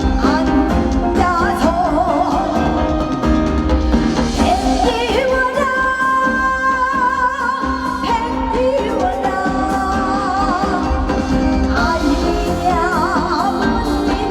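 A woman singing a Korean folk-style song with wavering, ornamented held notes over musical accompaniment.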